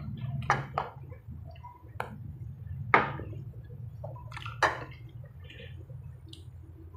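Close-up eating sounds: wet chewing and lip smacks, with a few sharp mouth clicks, the loudest about three seconds in. A steady low hum sits underneath.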